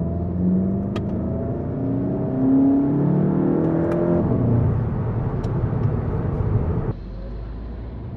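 Volkswagen Golf GTI mk7.5's turbocharged four-cylinder engine accelerating, its note rising in pitch over the first few seconds and staying loud. About seven seconds in, the sound drops suddenly to a steady low hum.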